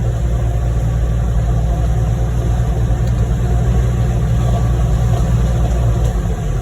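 Heavy diesel engines of a concrete mixer truck and a concrete pump truck running steadily while concrete is fed into the pump's hopper and pumped.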